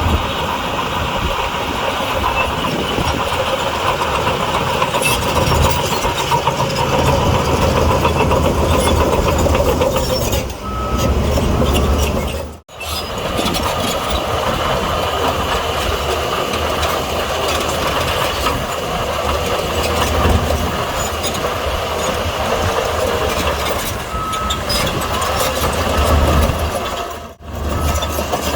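Heavy diesel engines of a bulldozer and dump trucks running while pushing and unloading soil. Short beeps of a reversing alarm come in around the middle and again near the end, and the sound breaks off briefly twice.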